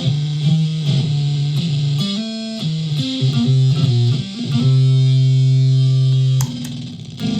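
Solid-body electric ukulele played through a clone of the Dwarfcraft Hax fuzz pedal into a PA speaker, with the starve control sagging the pedal's power. A run of short notes, then a chord held for about two seconds that cuts off suddenly, over a steady hiss.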